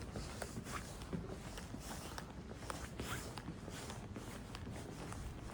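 Faint footsteps of people walking, a loose run of soft irregular taps and clicks.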